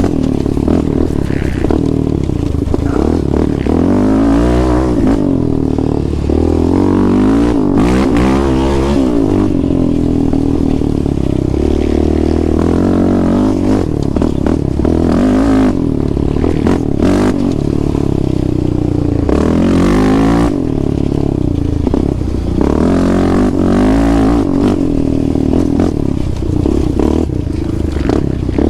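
An ATV engine revving hard under acceleration while being ridden. The pitch climbs and drops back again and again as the rider works the throttle and shifts.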